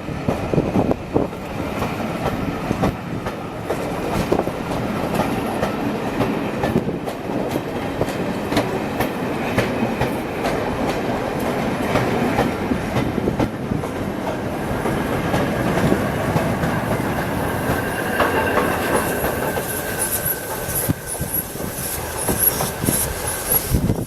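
Railway carriages rolling along the track, wheels clicking over rail joints, with high-pitched wheel squeal in the second half.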